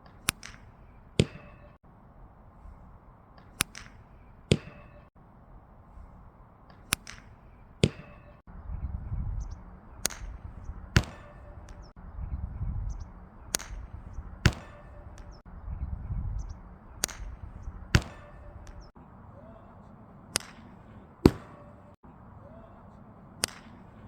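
Park golf club striking a ball over and over, about every three and a half seconds; each sharp hit is followed less than a second later by a second sharp knock.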